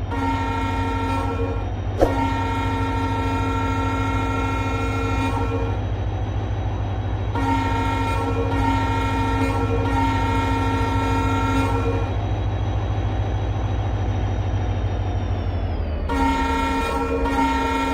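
Train horn sounding in long blasts, separated by short gaps, over a steady low rumble of a running train. A sharp click comes about two seconds in.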